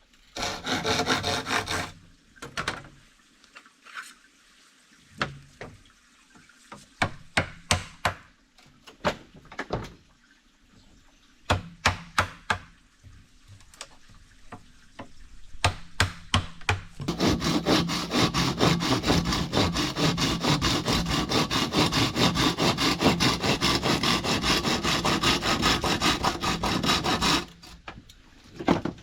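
Wood being worked by hand: a scatter of sharp knocks and taps, then about ten seconds of steady, rapid rasping strokes, like wood or bamboo being sawn or scraped.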